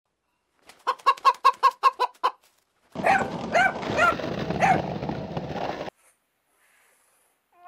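Domestic animal calls in two quick clips: first a fast run of about eight short sharp calls, then, after a brief gap, chickens clucking four or five times over a steady background hiss.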